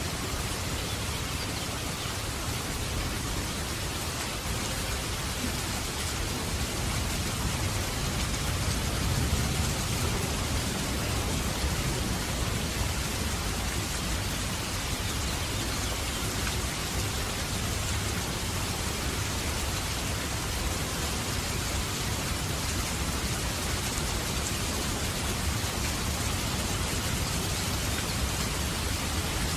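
Steady rushing hiss with a low rumble underneath, unbroken throughout, of the kind heavy rain makes.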